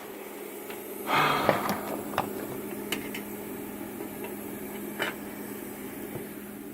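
CUT50 plasma cutter with a steady electrical hum. About a second in, the arc strikes with a sudden loud hiss and crackle, followed by a few sharp pops and a rough steady hiss until near the end. This is typical of a cutter that arcs and melts the metal rather than cutting cleanly.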